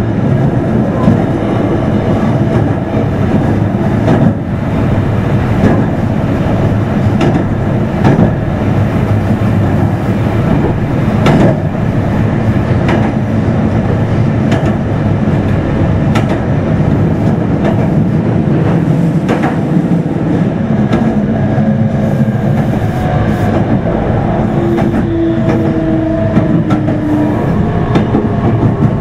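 Meitetsu 3100 series electric train running, heard inside motor car Mo 3212: a steady rumble of wheels on track, with rail-joint clicks every second or two. Near the end a faint electric motor whine comes in.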